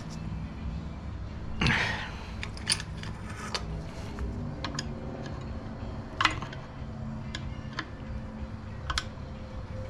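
Small metal carburetor parts clicking and tapping as they are handled and fitted, with a short rustling burst about two seconds in, over a steady low hum.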